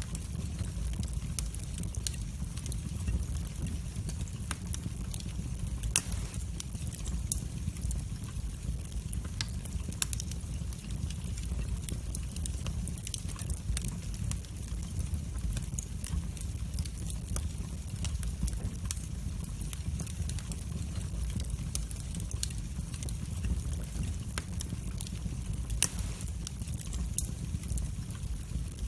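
Wood fire burning in a fireplace: a steady low rumble of flames with frequent small crackles and pops, and two louder pops about 6 and 26 seconds in.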